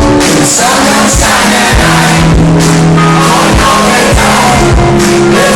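Loud live band music with a singer over a steady drum beat.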